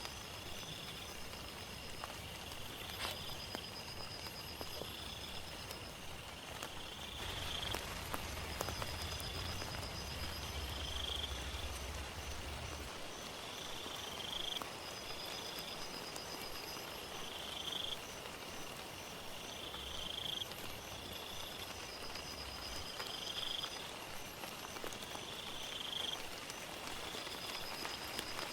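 Steady rain, with animal calls repeating over it: a short call about every two and a half seconds and a higher trill every five or six seconds. A low rumble swells for several seconds about a third of the way in.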